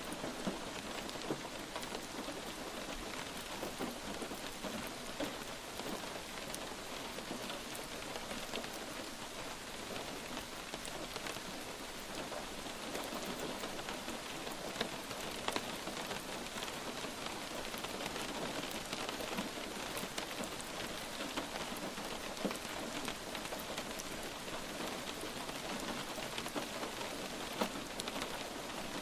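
Light rain falling steadily, a dense patter of individual drops ticking on a surface.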